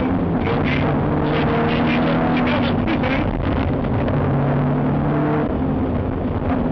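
BMW 318is rally car's four-cylinder engine working hard under load inside the cabin, its pitch stepping with gear changes, along with frequent rattles and knocks.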